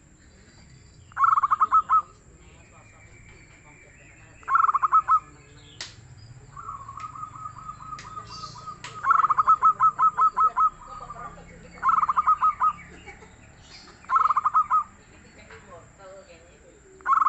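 Zebra dove (perkutut) cooing: short bursts of rapid, pulsed notes repeated every two to three seconds, with one longer run near the middle.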